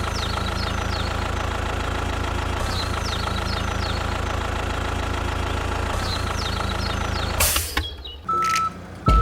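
A steady engine running at idle, with short high chirps repeating over it. Near the end a brief rush of noise cuts it off, and evenly spaced beeps at one pitch begin.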